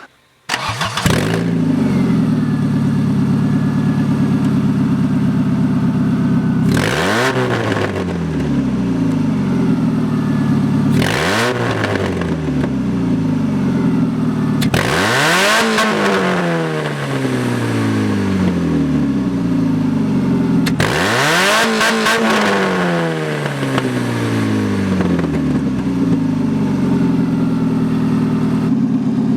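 A 1993 Saturn SW2's 1.9-litre twin-cam four-cylinder running loudly with only the exhaust manifold fitted, exhausting straight out of the open manifold outlet. It is revved four times; each time the pitch climbs quickly and then falls back slowly to idle.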